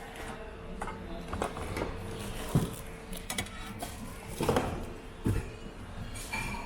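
Ceramic mugs and other housewares knocking and clinking against each other as they are handled and shifted in a bin, a few scattered knocks with the sharpest about two and a half seconds in and another small cluster about four and a half seconds in.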